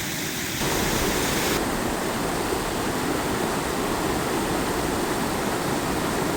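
Steady rushing of river water, the river running high after rain; it gets a little louder about half a second in.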